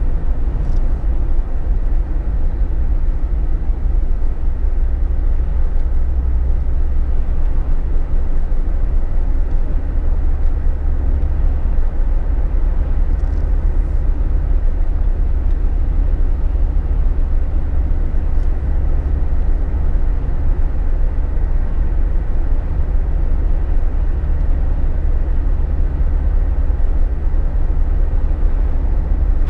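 Steady road noise inside the cabin of a Jeep Wrangler JK at cruising speed. A continuous low rumble of engine, tyres and wind, unchanging throughout, with a few faint ticks.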